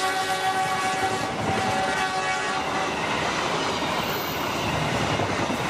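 Indonesian passenger train passing at speed behind a CC201 diesel locomotive. A locomotive horn holds a steady chord and fades out about three seconds in, over the rumble and clatter of the coaches' wheels on the rail joints.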